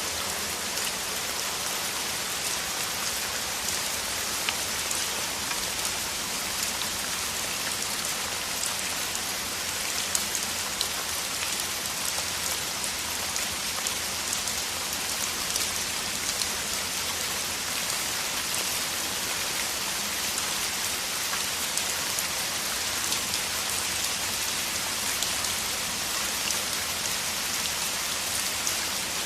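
Steady heavy rain, a dense even hiss with many small drop ticks and an occasional louder drop hitting a surface.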